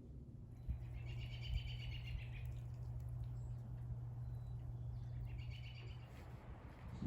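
A small bird gives a rapid, chattering run of repeated high notes, twice: once lasting about a second and a half near the start, and again more briefly near the end. A steady low hum runs underneath.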